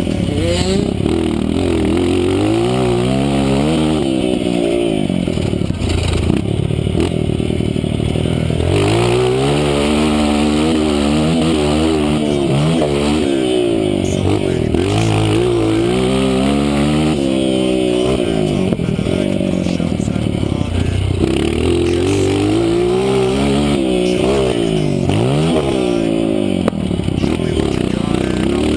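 Honda CRF230 dirt bike's four-stroke single-cylinder engine being ridden hard. Its pitch climbs under full throttle and drops back again and again as the rider accelerates, shifts and backs off.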